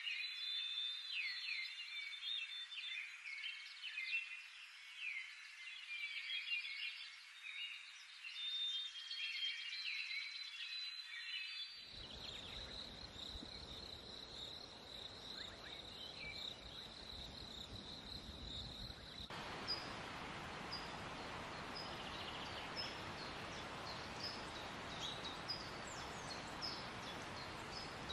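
Birds chirping in a busy chorus of many short high calls. About twelve seconds in, this cuts to a steady high insect drone over a soft hiss. From about nineteen seconds the drone gives way to hiss with short high chirps repeating about once a second.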